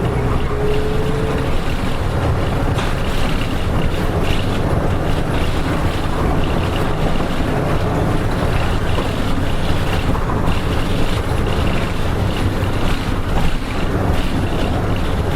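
Cabin running sound of a KK-RM252GSN diesel bus under way: a steady engine hum with road noise, holding an even pace.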